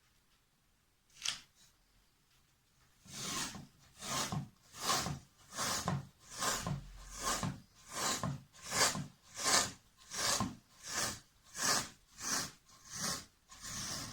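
Hand strokes rubbing back and forth across a wooden board, one short stroke and then a steady run of about one and a half strokes a second.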